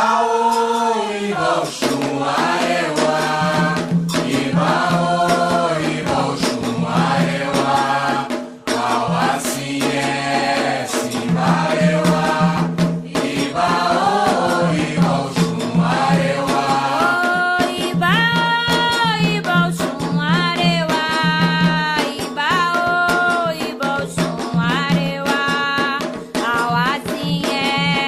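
Group singing of Yoruba chants for the orixás, with rattle and drum strikes keeping a steady beat.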